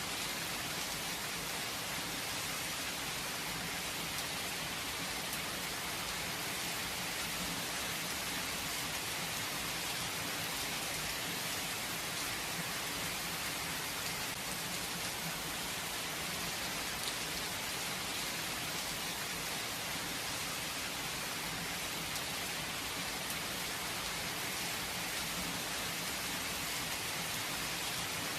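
Steady rain falling without thunder, an even hiss of many drops with faint scattered drop ticks.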